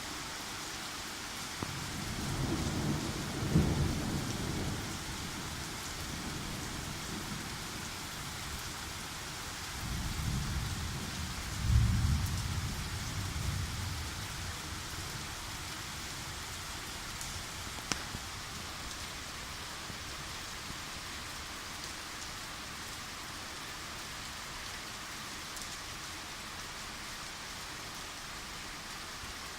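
Steady rain falling during a thunderstorm, with two rolls of thunder: one rumbles up about two seconds in, and a louder one about ten seconds in, both dying away over a few seconds.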